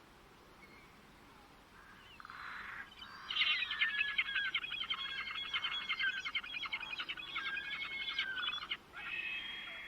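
A songbird sings one long, rapid song of many varied chirps and trills. It starts about three seconds in, after a short buzzy lead-in. Near the end, after a brief pause, it gives a held buzzy trill.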